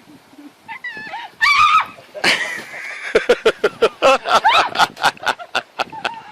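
An animal calling loudly: a few high, wavering calls, then a rapid run of pulsing cries at about four a second.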